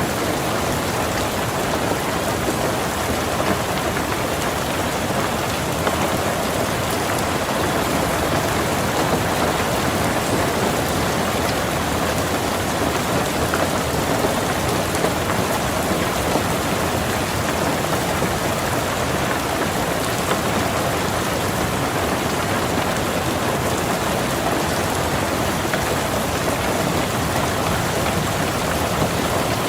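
Steady rain falling on a car's roof and windows, heard from inside the car, with scattered louder drops.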